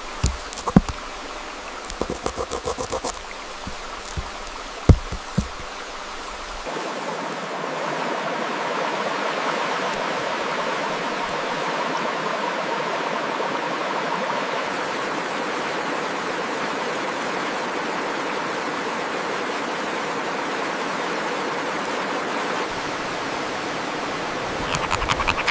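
Steady rush of running water, like a stream, coming in about a quarter of the way through. Before it there are a few sharp clicks and taps.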